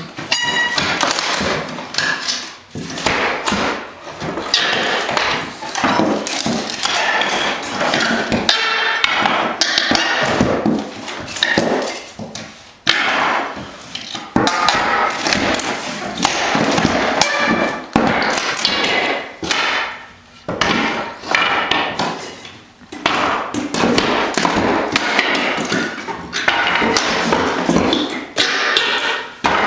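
Hammering and prying at old hardwood floorboards as they are torn up, a near-continuous clatter of knocks with only brief pauses.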